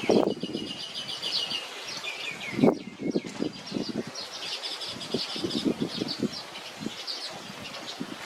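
Small bird chirping in quick repeated trills, with soft low thumps and rustles underneath.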